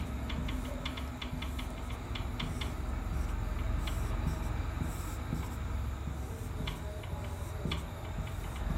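Scattered light clicks and scratches of a pen or marker writing and drawing on a board, over a low steady hum.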